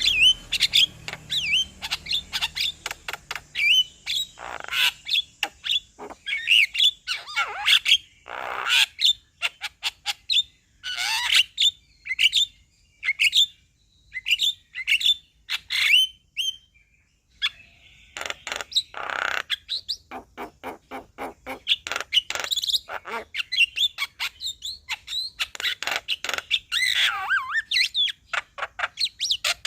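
Male Javan myna (white-vented myna) singing: a rapid, varied run of short whistles, harsh chattering notes and sharp clicks, broken by a couple of brief pauses.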